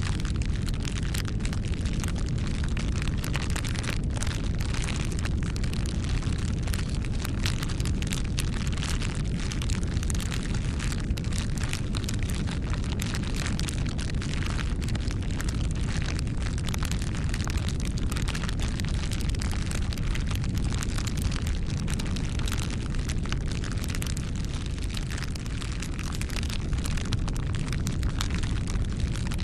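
Wood fire burning: dense, irregular crackles and small pops over a steady low rushing noise.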